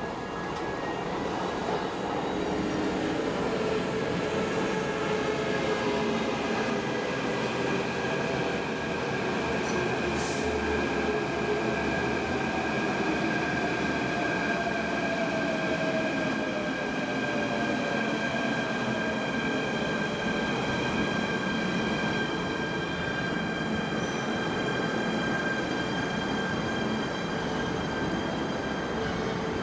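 MTR electric train running through the station, with steady high wheel squeal over the rail noise and a slowly falling motor whine. The sound builds over the first few seconds and then holds steady.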